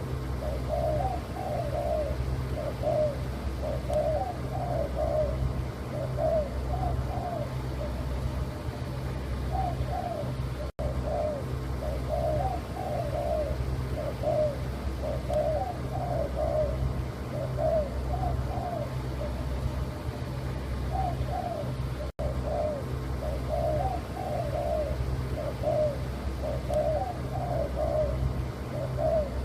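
A tekukur dove of a leopard colour mutation cooing over and over in short repeated phrases, with a steady low hum underneath.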